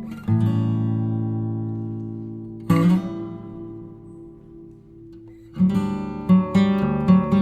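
Background music on acoustic guitar: a strummed chord left to ring, a second one about two and a half seconds in that fades almost away, then a run of quick strums near the end.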